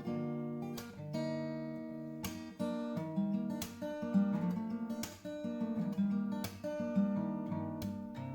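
Acoustic guitar music, plucked and strummed chords in a steady rhythm.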